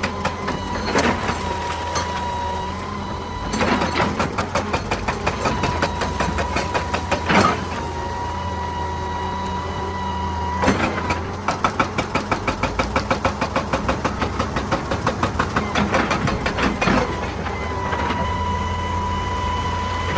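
Excavator's diesel engine running steadily under load, with a thin steady whine above it. Twice it breaks into long spells of rapid, rhythmic hammering on rock, about eight strikes a second, with a few single heavy knocks in between.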